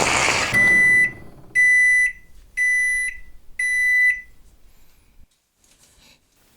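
Microwave oven beeping four times at the end of its heating cycle: even, high, half-second beeps about once a second. Before them, a loud, noisy racket dies away in the first second.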